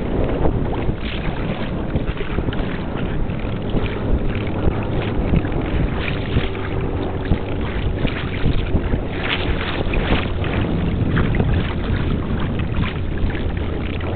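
Water rushing and splashing along a Hobie pedal kayak's hull as it moves at about 4 mph under its Mirage Drive, with irregular short splashes and a steady wind rumble on the microphone.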